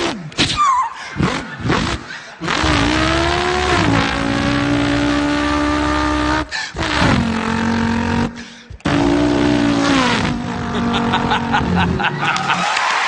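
A man imitating a car engine with his voice: the engine note revs up and holds, drops away at short breaks like gear changes, then climbs again. Applause begins near the end.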